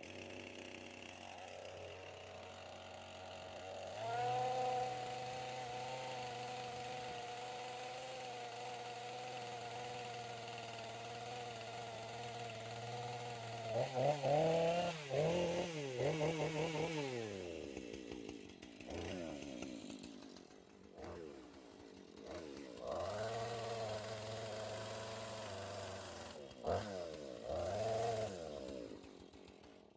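Gasoline chainsaw running steadily. Its engine revs up and down several times, most strongly about halfway through and again near the end, before the sound cuts off abruptly.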